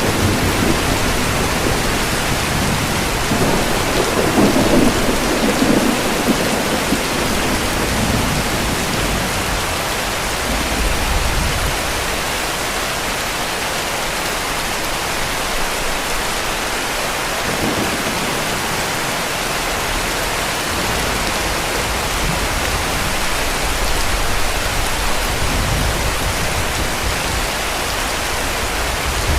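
Heavy, steady rain falling, with low rumbles of distant thunder swelling now and then, the strongest a few seconds in.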